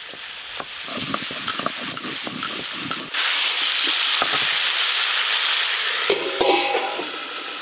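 Vegetables frying in mustard oil in an iron wok, with a spatula clicking and scraping. About three seconds in, a loud steady sizzle starts. Near the end a steel lid knocks down onto the wok with a brief metallic ring, and the sizzle dies down under it.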